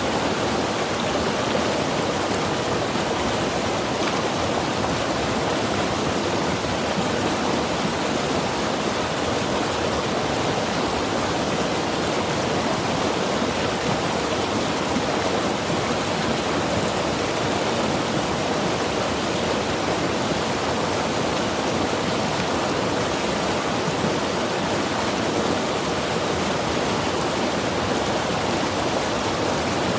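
Mountain river rushing over rocks: a steady, even roar of white water with no change.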